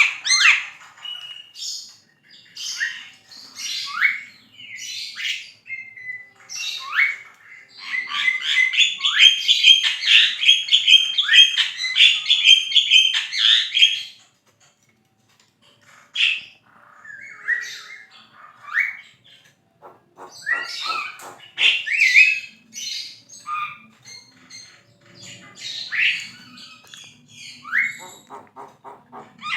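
Javan myna singing in full voice: a varied string of whistled glides and harsh squawks. It includes a long run of fast, dense chatter in the first half, a brief pause near the middle, and then more calls and rapid clicking series.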